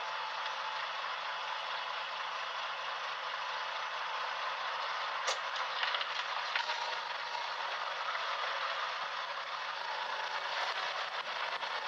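Road and running-gear noise picked up by a recorder strapped to a 2003 Toyota Tacoma Prerunner's axle: a steady rushing noise with a low hum beneath it, and a few sharp knocks and rattles about five to seven seconds in.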